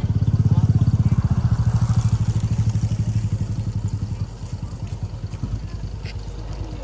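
A small engine running with a rapid, even chug, loud for the first four seconds or so and then dropping to a quieter level.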